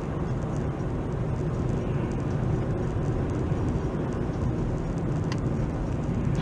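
Steady low rumble of a car driving, engine and road noise heard from inside the cabin through a dashcam microphone, with a faint tick or two about five seconds in.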